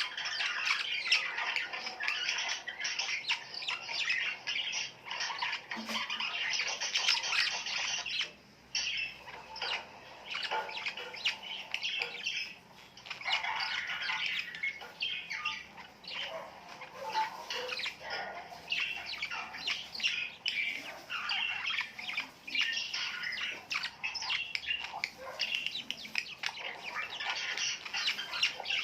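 Birds chirping and calling almost without pause, with brief lulls about eight and twelve seconds in.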